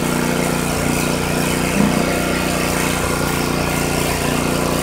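Airless paint sprayer running steadily, a constant machine hum, with a brief knock about two seconds in.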